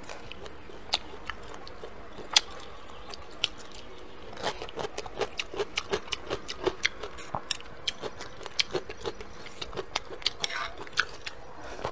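A person chewing a mouthful of food close to the microphone. A few separate clicks at first, then from about four and a half seconds in a steady run of wet, smacking chews, about three a second.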